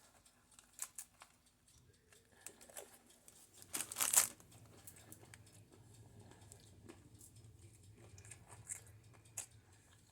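Biting into and chewing a toasted sandwich on brioche, with faint scattered mouth and crinkling sounds and one louder tearing bite about four seconds in.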